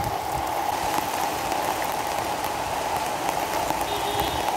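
Steady downpour of rain, drops pattering close to the microphone on a hardboard sheet held over the phone.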